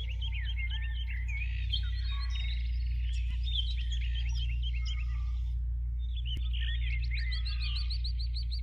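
Birds chirping, many short calls overlapping, with a fast run of repeated high notes near the end, over a steady low hum.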